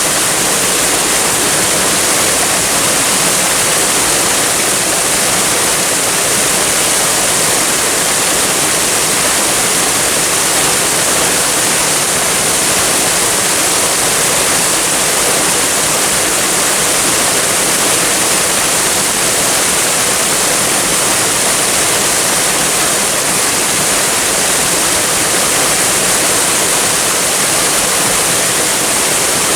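Waterfall and flowing water: a steady, even rush of falling water with a bright hiss.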